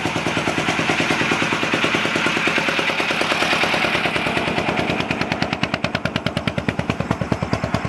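Single-cylinder Petter diesel engine driving an irrigation pump, running with a fast, even beat of firing strokes that turns more distinct in the last few seconds.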